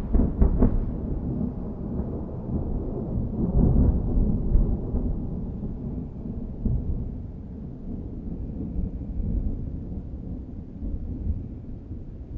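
Thunder: a few sharp cracks in the first second, then a long low rolling rumble that swells and ebbs and slowly fades away.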